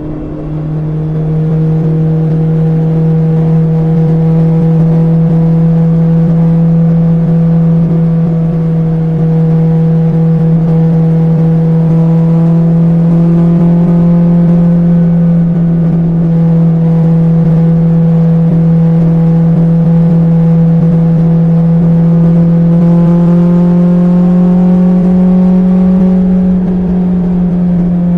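BMW S1000XR's inline-four engine through an Akrapovic exhaust, cruising at steady revs with one steady note. The pitch creeps up slightly late on, then eases briefly near the end as the throttle comes off and back on.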